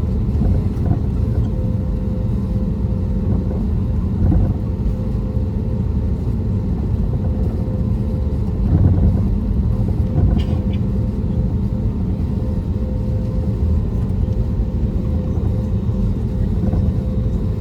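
Cabin noise inside an Airbus A320neo with CFM LEAP-1A26 engines: a steady low rumble with a constant hum, and a few brief louder bumps about four, nine and ten seconds in.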